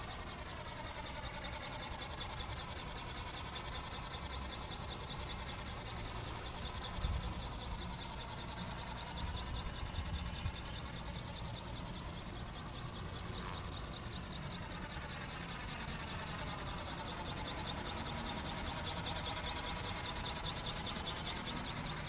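Small model flapping-wing bird (ornithopter) buzzing in flight, a steady fine whirr whose tone slowly sweeps up and down. Low wind rumble runs underneath.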